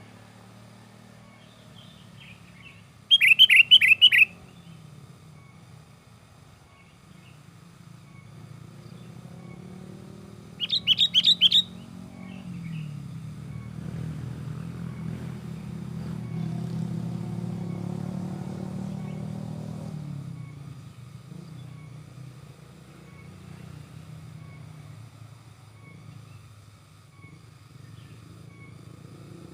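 Sooty-headed bulbul (kutilang) calling in two loud bursts of rapid chattering notes, about three seconds in and again about eleven seconds in. Under the calls runs a low engine drone that swells for several seconds in the middle.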